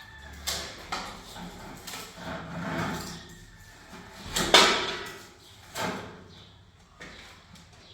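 A series of knocks and scrapes from objects being handled, the loudest about four and a half seconds in.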